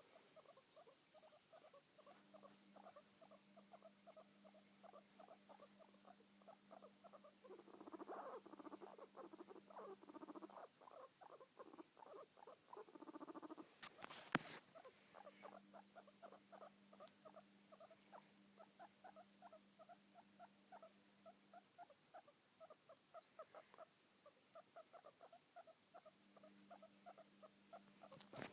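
Guinea pig purring: a faint, fast run of short pulses, louder for a couple of seconds about a third of the way in and again around the middle. A single sharp click comes about halfway through.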